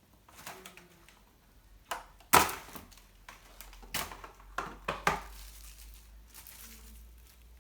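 Kitchen handling noises: a handful of sharp knocks and clatters of objects being set down and moved, the loudest about two seconds in, with a faint low hum under the second half.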